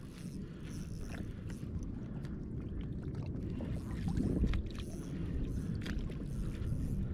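Water sloshing against a kayak's hull over a steady low rumble, with a few light clicks and splashes.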